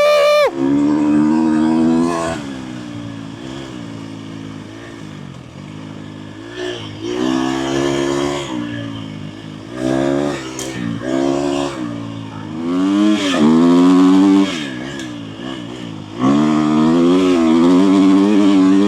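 Dirt bike engine under way, its pitch climbing and dropping again and again with the throttle: a sharp rev right at the start, a few seconds of lower, quieter running off the throttle, then repeated pulls back up and a loud, steady stretch near the end.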